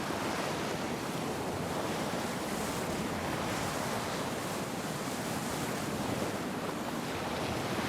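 Steady rushing of wind and rough sea.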